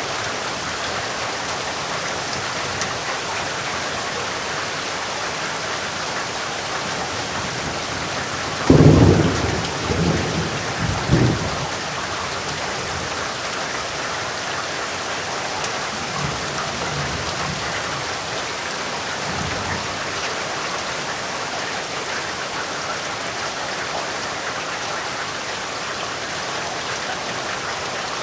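Steady rain with a sudden loud clap of thunder about nine seconds in that rolls on for a couple of seconds, then fainter rolls of thunder several seconds later.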